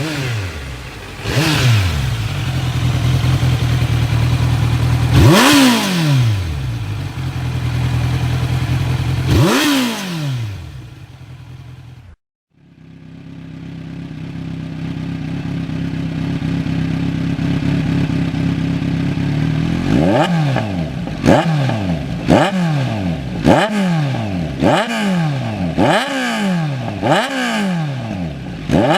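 Kawasaki motorcycle engine through an SC-Project aftermarket exhaust, idling and revved in three sharp blips that each fall back to idle. After a brief break about twelve seconds in, a bike idles again, then is blipped over and over, a little more than once a second.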